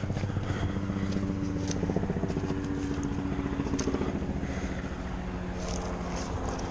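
An engine running steadily with a fast even beat, its pitch shifting a little, with a few sharp clicks over it.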